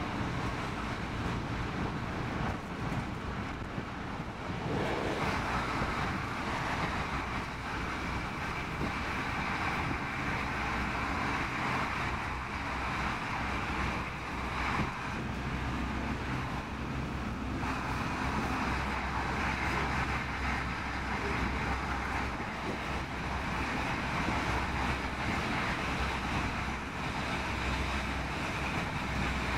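Running noise heard inside the carriage of a Stockholm commuter rail X10 electric multiple unit travelling at speed: a steady low rumble with wheel-on-rail and rushing noise. A brighter hiss grows louder about five seconds in.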